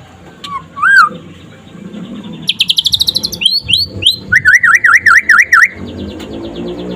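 White-rumped shama (murai batu) singing: two whistled notes, then a fast rising trill about two and a half seconds in, a few quick upslurred notes, and a rapid rattling run of up-and-down notes that ends near six seconds.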